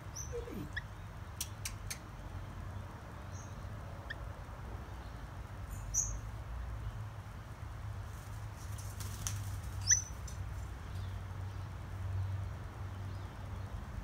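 Willie Wagtail giving a few short, high chirps several seconds apart, the loudest about six and ten seconds in, along with a few faint clicks, over a steady low hum.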